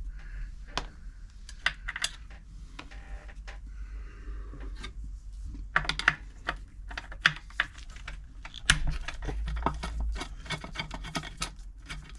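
Irregular clicks, taps and clatter of a sewing machine and its parts being handled as its base is taken off, thickening in the second half.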